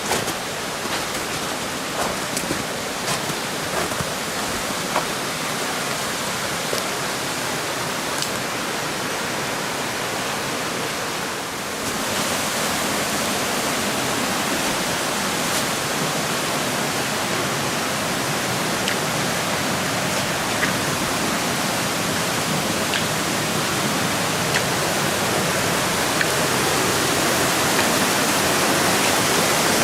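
Rushing water of a mountain waterfall, a steady dense rush that gets a little louder about twelve seconds in.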